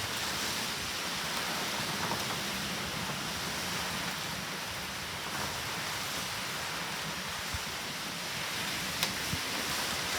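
Typhoon rain and wind making a steady, even rushing noise, with a few faint ticks in the last few seconds.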